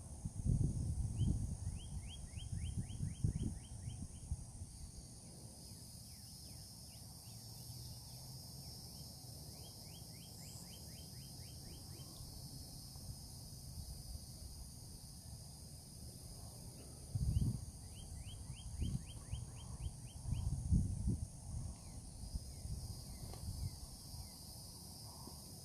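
A songbird repeats a quick series of short descending notes every few seconds over a steady high buzz of insects. Low irregular rumbles come near the start and again about two-thirds of the way through.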